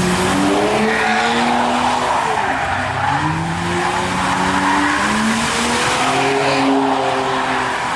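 Car engine revving hard in repeated rising and falling waves while the tires squeal and skid continuously: a car doing a burnout or donuts.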